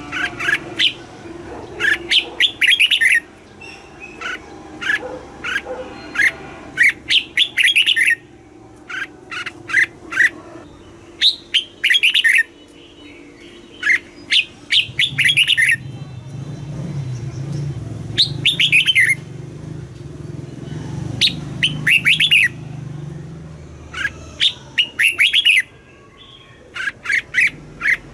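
Red-whiskered bulbul singing: short phrases of quick, bubbly notes, one after another with brief pauses. A low rumble runs under the song from about halfway through until near the end.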